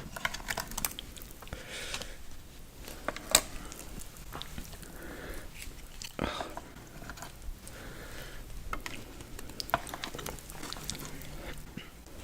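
A person eating spicy Korean noodles close to the microphone: wet chewing with many scattered mouth clicks and smacks, the sharpest about three seconds in.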